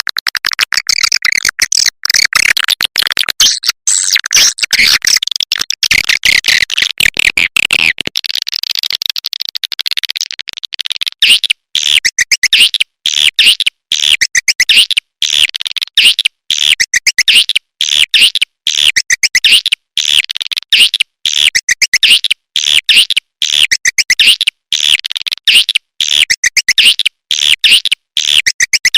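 Swiftlet lure recording: dense, high-pitched twittering swiftlet calls made of rapid chirps. About a third of the way in, a thick layered chorus gives way to one short chirping phrase looped over and over at a quick, even pace.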